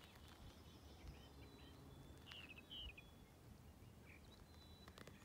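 Near silence with faint bird chirps, a few short ones close together about halfway through, over a low background rumble.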